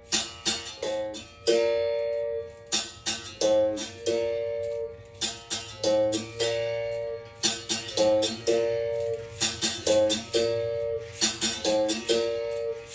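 A berimbau played in a repeating rhythm: a few quick sharp strikes on the string, then a longer ringing note. The pitch shifts between a couple of notes, and the pattern cycles about every two seconds.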